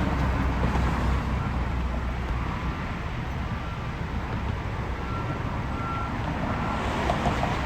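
Fire truck's diesel engine running with a steady low rumble while reversing, with faint short beeps sounding on and off in the middle.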